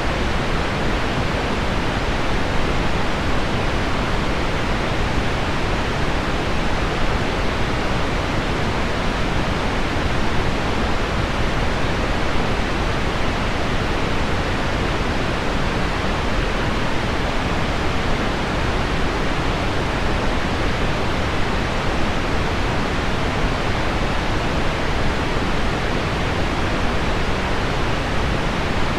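Steady, even noise weighted toward the low end: heavy rain on window glass mixed with pink noise, with no single drops or gusts standing out.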